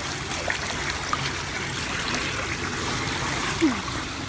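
Floodwater running steadily into a street storm drain that has just been cleared of debris. A short falling tone sounds near the end.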